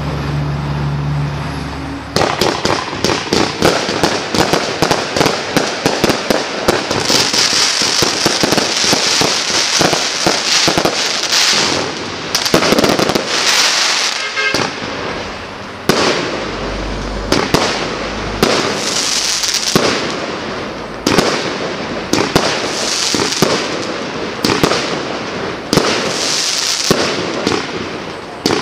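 A 223-shot fireworks cake in 20, 25 and 30 mm calibres firing rapid volleys of shots, with crackling effects between them. The barrage starts about two seconds in and comes in waves every few seconds.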